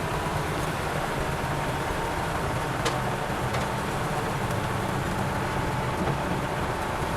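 Heavy diesel engine of earthmoving machinery running steadily, with a thin high whine over it and a single sharp click about three seconds in.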